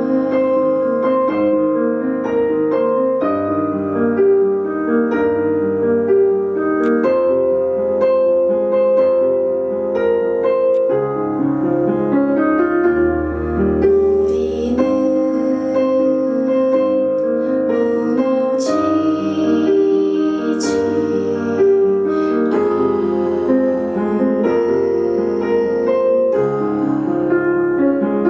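Live performance of a slow piano ballad: piano chords and melody with a woman singing.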